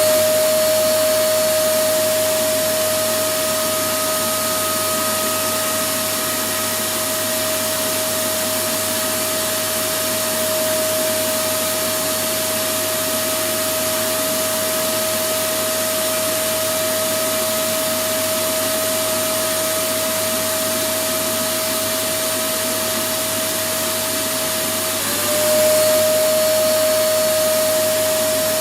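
Electric vacuum cleaner running steadily: a constant motor whine over rushing air noise. About 25 seconds in, the whine dips briefly and glides back up as the sound swells a little.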